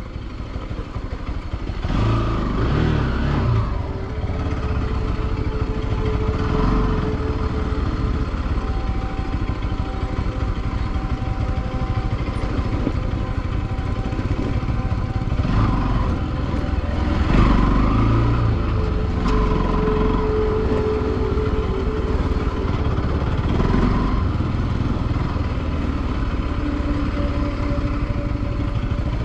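Bajaj Pulsar 200NS motorcycle's single-cylinder engine running at low speed on a rough dirt trail, the revs rising and falling with the throttle, over a heavy low rumble. It gets louder about two seconds in.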